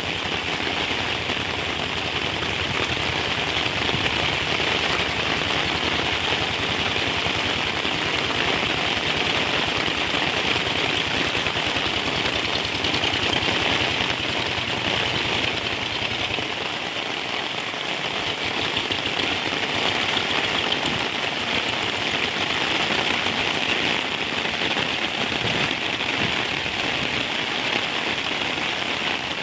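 Heavy rain falling steadily, a dense rapid patter of drops, with a faint low rumble underneath that stops about halfway through.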